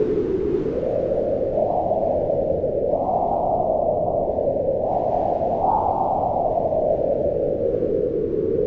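Wind howling: a steady rush whose pitch swells upward in gusts about three and six seconds in, then slowly sinks.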